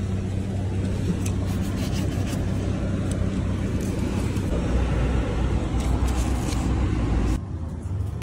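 Steady low hum of a car engine idling, with rustling and clicking from handling paper and the car door; the sound changes abruptly near the end.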